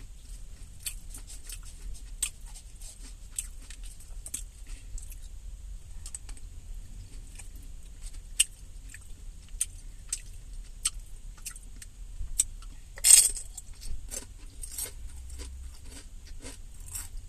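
Close-up eating: tortilla chips and salad being crunched and chewed, a run of short crisp crackles and clicks, with one louder crunch about three-quarters of the way through. A low steady rumble runs underneath.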